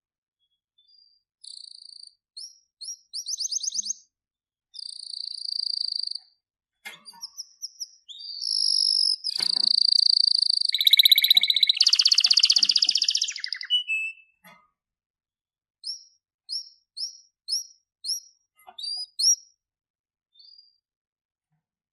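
Canary singing: high whistled notes and fast rolling trills, busiest and loudest about eight to fourteen seconds in, then a run of short separate chirps with brief pauses.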